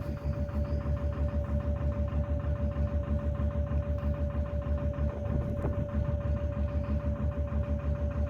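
Narrowboat engine running steadily at cruising speed: a low, even chug of about five beats a second with a steady high hum over it.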